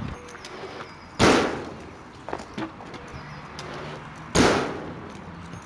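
Two loud impacts about three seconds apart, each dying away over about half a second, with a few faint knocks between them.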